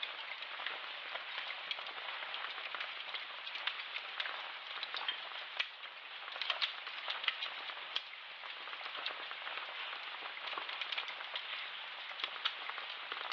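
Steady crackling hiss with frequent sharp pops and clicks scattered through it.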